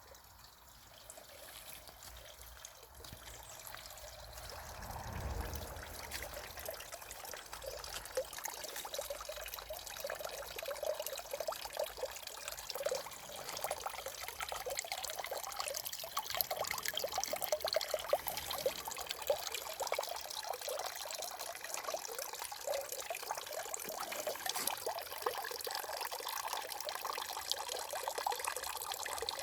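Water falling and trickling down a three-tier garden water feature, growing louder over the first several seconds and then running steadily.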